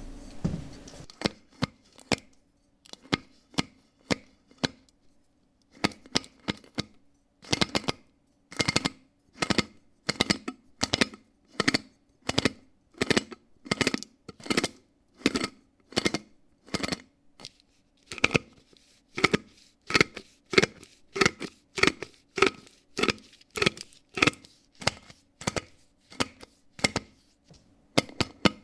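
A series of sharp clicks or snaps, a few scattered at first, then repeating steadily about twice a second, over a faint steady hum.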